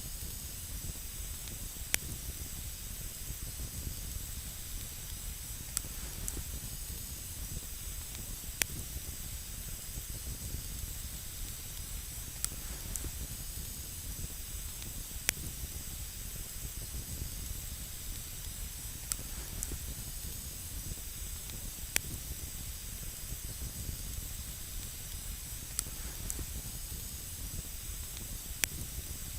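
Wood campfire burning on snow: a steady hiss and low rumble, with sharp single crackling pops every few seconds.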